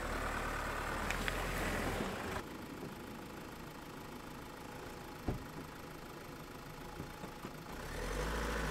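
Mazda CX-5's engine idling, with a single thump of the car door shutting about five seconds in; the low engine sound grows louder near the end.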